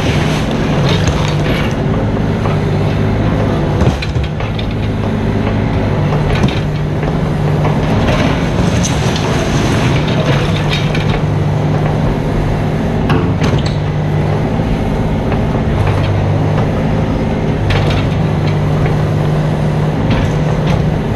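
Mini excavator's diesel engine running steadily under work, with scattered knocks and scrapes of the bucket working the ground.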